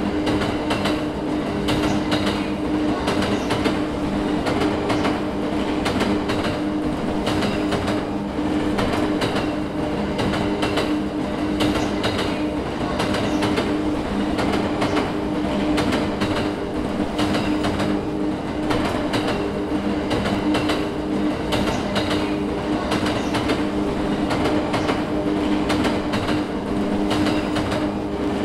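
Passenger train running along the track: wheels clacking over the rails over a steady rolling hum.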